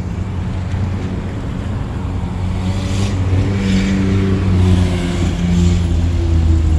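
A car engine running at low revs, its note wavering a little and slowly getting louder.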